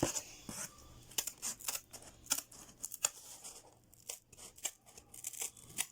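Scissors cutting through cardboard: a run of short, irregular snips as a circle is cut out.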